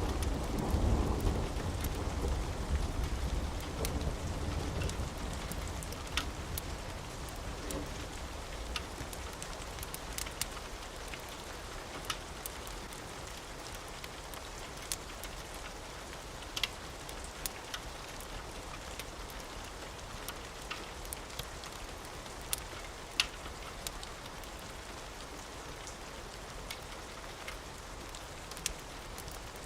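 Steady rain falling, with a low rumble of thunder that is loudest at the start and dies away over the first several seconds. Scattered sharp clicks sound through the rain.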